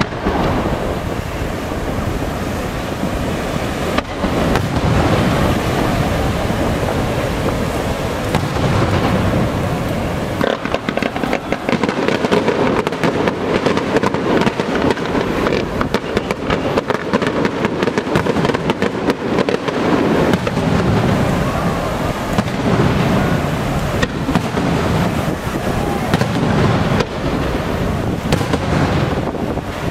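Aerial fireworks bursting one after another in a continuous loud rumble, with a dense run of rapid crackling reports from about ten seconds in.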